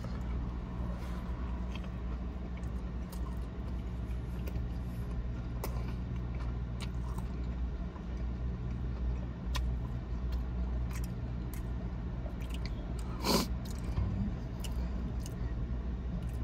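Close-up biting and chewing of a crispy Nashville hot fried chicken sandwich, with scattered short crunching clicks and one sharper crunch late on, over a steady low hum inside a car.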